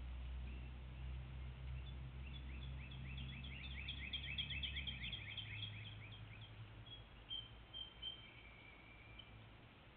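Small wild bird singing: a fast run of short repeated high notes, about six a second, for a few seconds, then a few thin, high held notes. A low steady hum runs beneath it and drops in pitch about five seconds in.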